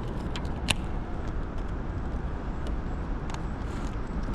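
Steady low rumbling background noise, with a handful of short, light clicks and ticks scattered through it.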